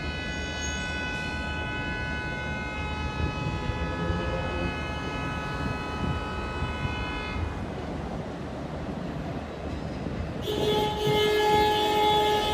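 New York City subway R142 train rumbling along the rails, with a steady high whine that fades out about seven seconds in. A loud, steady horn tone sounds from about ten seconds in to the end.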